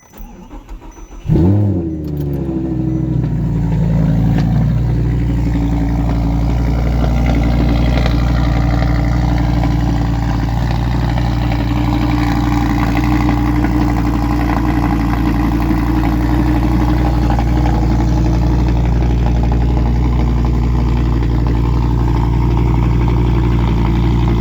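2012 Audi R8's V10 engine with a Larini Club Sport exhaust starting from cold. The starter cranks for about a second, then the engine catches with a sharp, loud flare whose pitch falls away. It settles into a steady, loud cold idle.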